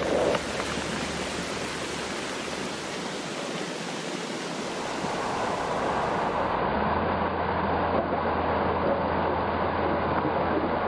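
Floodwater rushing steadily, an even noisy roar of moving water.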